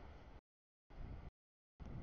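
CSX autorack freight train rolling past: a low, rough rumble of wheels on rail, heard in three short snatches of about half a second each, with dead silence between them where the audio drops out.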